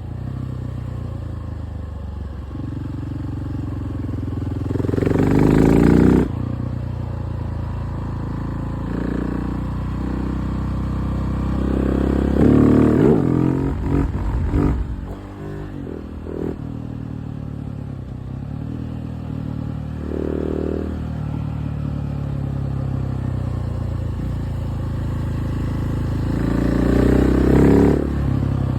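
KTM 690 SMC R's single-cylinder engine under way, running steadily with three hard throttle openings where it revs up. The first cuts off sharply, and the one midway rises and falls unevenly.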